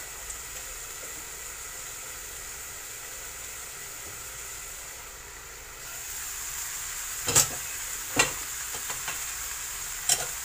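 Chicken breast pieces with onion and peppers frying in a lidded nonstick pan, a steady sizzle that grows louder about six seconds in as the metal lid is lifted off. Three sharp knocks follow, two close together and one near the end.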